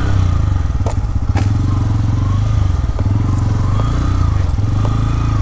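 Bajaj Pulsar N160's single-cylinder engine and exhaust running while the bike is ridden, with a steady pulsing beat that rises and falls a little in pitch. Two sharp clicks come about a second in.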